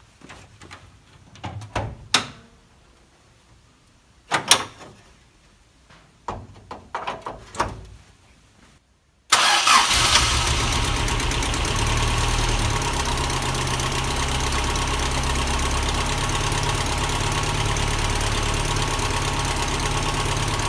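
A few scattered clicks and knocks, then about halfway through a 1979 Toyota Corolla SR5's 1.6-litre four-cylinder engine starts at once and settles into a steady idle. The owner says it starts rough and doesn't run smoothly, which is why it needs a tune-up.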